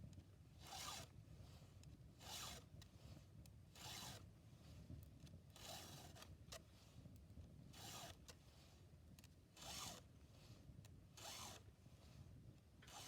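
A file being drawn across a chainsaw chain's cutters to sharpen them: quiet, even strokes, about one every one and a half to two seconds, eight in all.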